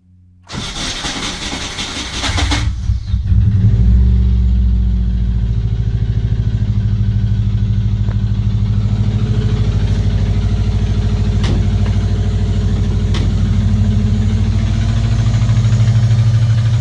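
Subaru EJ205 flat-four engine cranked by the starter for about two seconds, then catching and settling into a steady cold idle with a rhythmic knock, which the owner traces to cylinder 4 on cold start. A few short clicks come through the idle.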